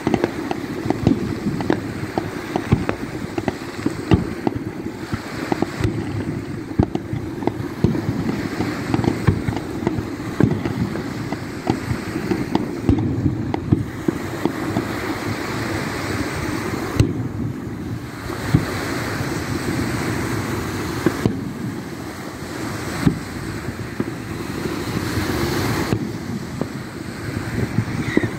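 Aerial firework shells bursting, a rapid run of pops and crackles with a few louder bangs scattered through. Underneath is a steady rumble of wind on the microphone and surf on the shore.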